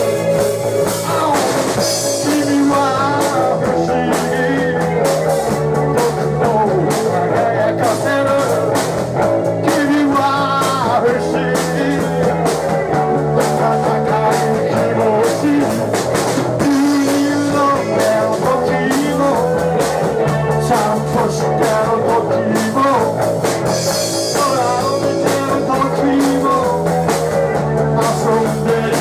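Rock band playing live: electric guitar with bending, wavering lead notes over bass and drum kit, continuous and loud.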